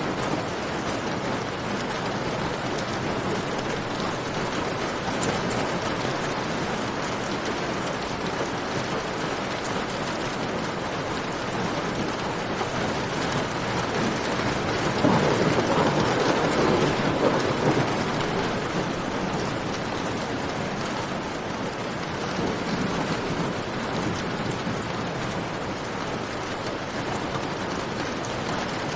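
Steady rain falling, with a rumble of thunder swelling up about halfway through and fading after a few seconds.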